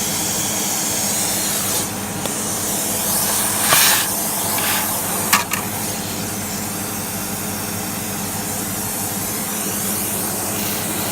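Vacuum cleaner running steadily, a motor hum under a high airy hiss of suction. There are two brief louder rushes of air, about four and five seconds in.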